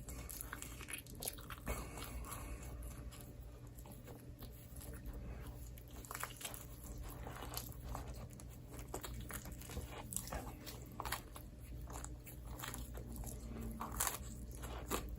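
Close-miked eating of microwaved pizza: bites and chewing with irregular crunchy, crackly mouth sounds.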